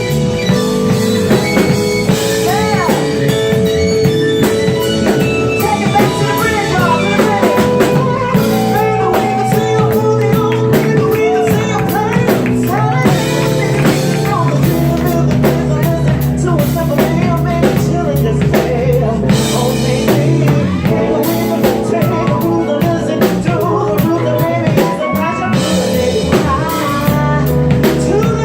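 Live R&B band playing a steady groove on drum kit, bass and guitar, with a lead line of sung or saxophone runs gliding over it.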